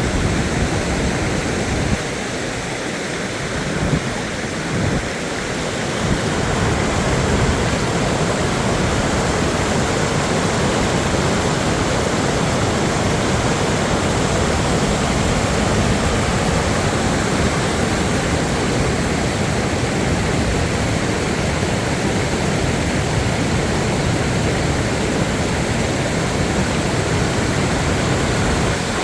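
Storm water rushing steadily, a loud even rush with no distinct strokes, slightly weaker for a few seconds near the start and then steady.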